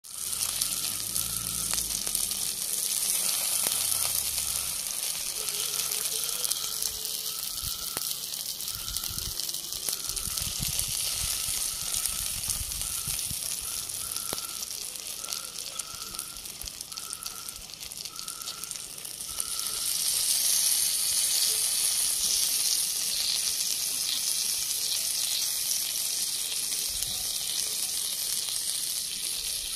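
Chicken pieces sizzling as they fry in oil in a cast-iron skillet, a steady hiss that gets louder about two-thirds of the way through.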